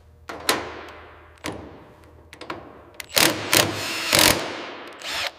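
A series of about seven or eight sharp knocks and clunks, each trailing off in echo, the loudest bunched together from about three to four and a half seconds in.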